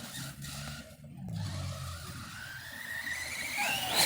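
Electric RC car motor whining, rising steadily in pitch for about three seconds as the car speeds up, over a rough rumble of its wheels on the ground.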